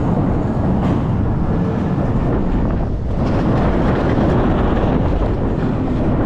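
Roller coaster train running along its track, a loud steady rumble with wind buffeting the microphone, dipping briefly about three seconds in.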